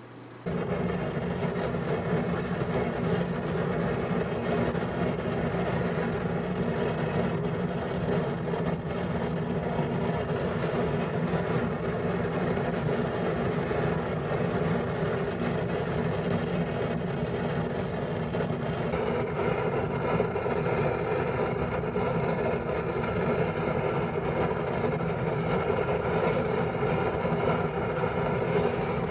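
Steady hum and rush of a homemade waste-oil heater running. A fuel-oil burner with its pump removed serves as the blower fan. The sound starts abruptly about half a second in.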